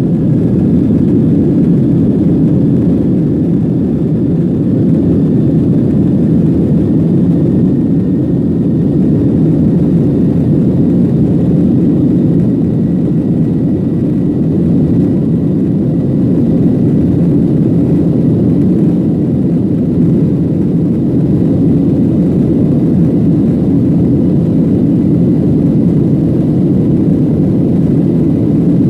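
Steady low rushing noise inside the rear cabin of a Boeing 737-800 climbing after takeoff: CFM56-7B jet engines and airflow over the fuselage, with a faint, thin high whine from the engine fans.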